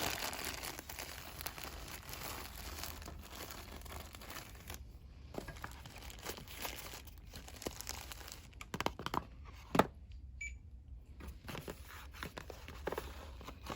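Fast rustling and crinkling of cosmetic packaging, dense for the first five seconds or so. After that it breaks into scattered taps and clicks, with one sharp knock a little under ten seconds in.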